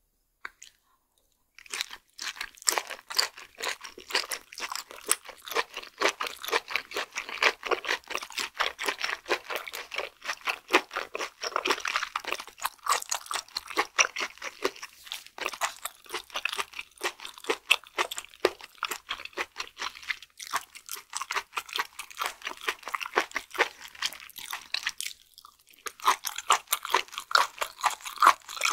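Close-miked chewing of raw flatfish sashimi: fast, wet, crunchy mouth clicks that begin about two seconds in and keep up steadily, easing off briefly near the end.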